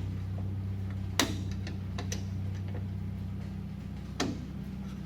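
A few sharp metallic clicks and knocks from hand tools on the truck's front hub, the loudest about a second in and another near the end, over a steady low hum.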